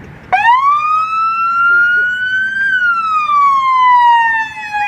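Police car's electronic siren sounding a slow wail: it starts abruptly just after the beginning, rises in pitch for about two seconds, then falls slowly.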